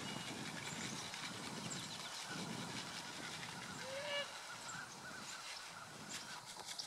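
Backyard poultry calling: one loud, short call about four seconds in, followed by a run of short, soft calls.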